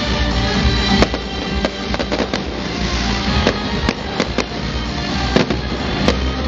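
Fireworks going off: a string of sharp bangs and crackles, several in quick succession, over background music.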